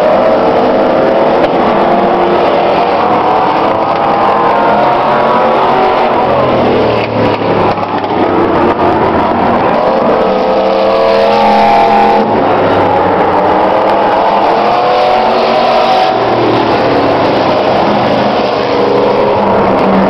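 Several race trucks' engines running together at speed, their pitches rising and falling as they rev and lift around the track.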